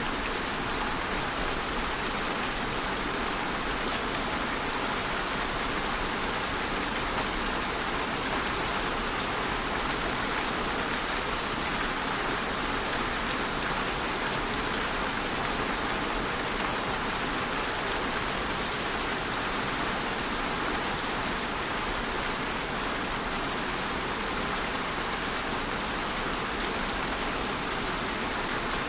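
Steady rainfall, a dense even hiss of drops with a few faint sharper drop ticks.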